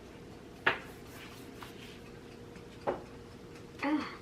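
Two light knocks at a table, about two seconds apart, then a brief clatter near the end, as food and utensils are handled.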